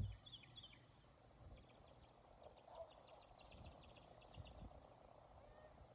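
Faint outdoor ambience: a short low thump at the start, then light high-pitched chirping over a low rumble.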